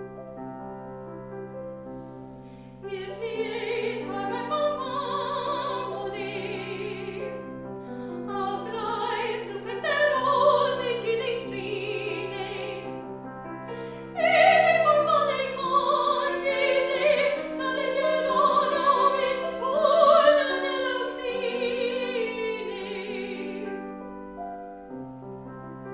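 A classical singer in operatic style, accompanied by piano. The piano plays alone at first, and the voice enters about three seconds in. It sings long phrases with vibrato and short breaks between them, then stops near the end while the piano carries on.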